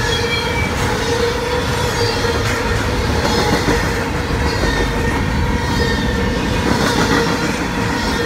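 Double-stack intermodal freight cars rolling past: a steady rumble and clatter of steel wheels on the rails, with a steady squeal over it.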